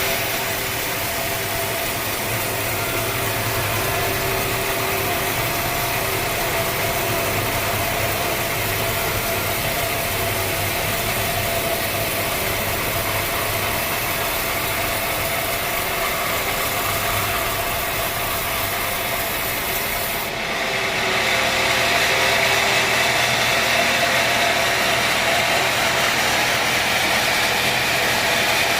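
Sawmill machinery running steadily, a dense mechanical noise with a faint steady hum. About twenty seconds in, the sound changes abruptly to a brighter, hissier noise.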